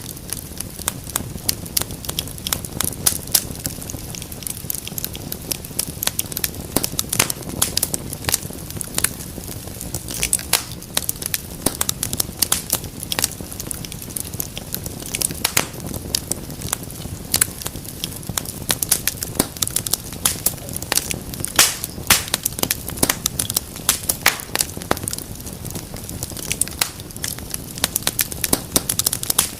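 Wood fire crackling in a fireplace: dense, irregular sharp pops and snaps over a steady low rush of flames.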